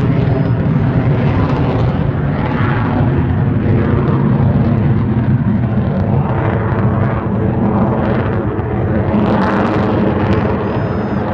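Loud, steady roar of a jet aircraft flying past, its tone sweeping up and down several times as it passes.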